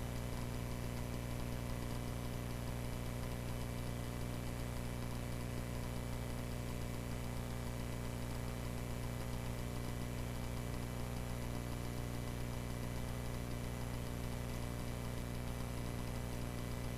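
Cessna 140A's engine running at a steady speed, a low even drone with a hiss over it that does not change.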